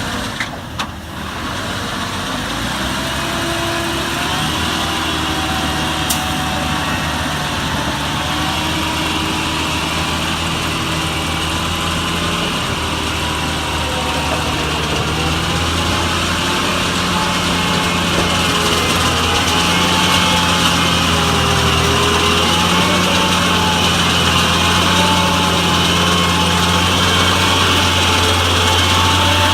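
Peterbilt module truck's diesel engine running steadily, with a higher whine that drifts up and down in pitch. It grows louder about two-thirds of the way through.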